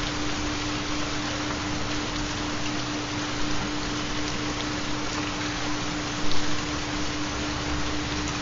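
Steady recorded rain sound, an even hiss of falling rain, with a constant pure tone underneath from a 4 Hz theta binaural-beat track. There is a brief louder swell about six seconds in.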